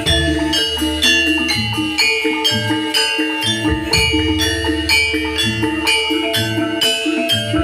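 Javanese gamelan music for a jathilan dance: bronze metallophones struck in a quick, steady rhythm of ringing notes, with a deep gong stroke about every four seconds.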